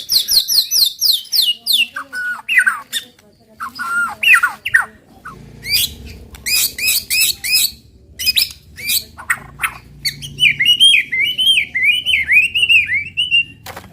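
White-rumped shama (murai batu) singing a loud, varied song: a quick run of falling whistled notes at the start, then short phrases and rapid repeated notes, and a chattering string of wavering notes near the end.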